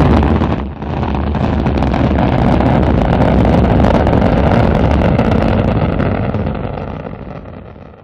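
Loud rumbling roar of a rocket launch. It starts abruptly, dips for a moment about a second in, holds steady, then fades near the end before cutting off.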